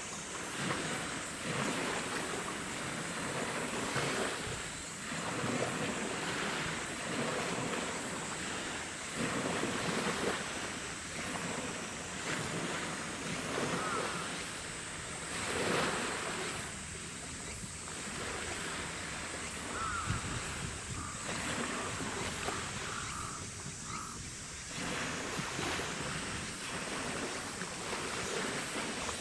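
Gusty wind on the microphone and the wash of choppy water, surging and easing every few seconds.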